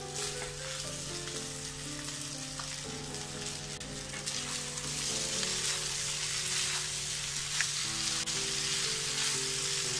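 Egg noodles sizzling as they stir-fry in a hot pan, just doused with soy sauce and tossed with a fork. The sizzle grows a little louder about halfway through.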